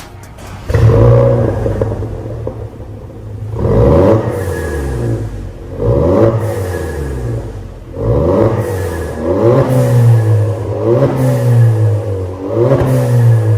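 VW Golf 280TSI's turbocharged EA211 four-cylinder engine revved through an MS-R valved cat-back exhaust and downpipe, in a series of sharp blips. Each rise in pitch falls away before the next, about every one to two and a half seconds.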